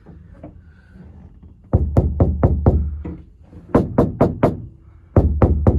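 Fist or knuckles rapping on a truck's sheet-metal roof panel freshly lined with Dynamat sound deadener, in three quick bursts of about five or six knocks each, giving dull, deep thuds instead of a rattle.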